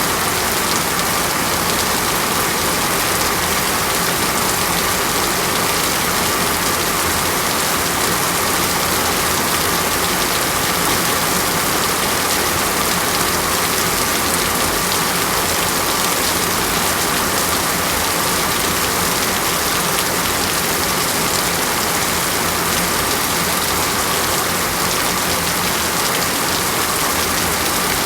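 Steady rain falling on a surface, an even hiss with no change.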